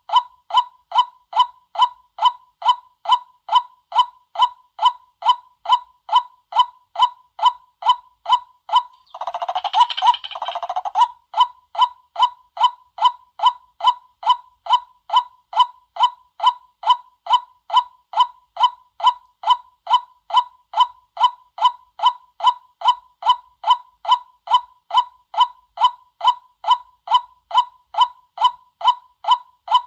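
White-breasted waterhen lure call: a monotonous series of short, identical 'kwak' notes, about two to three a second. About nine seconds in, a harsher, rougher call breaks in for about two seconds before the even series resumes.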